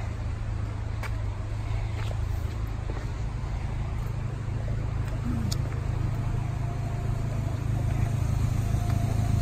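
Vehicle engine idling: a steady low rumble that slowly grows louder.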